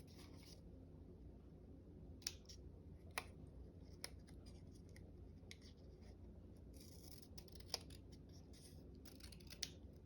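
Scissors cutting paper: a handful of sharp snips at uneven spacing, with soft paper rustling in between.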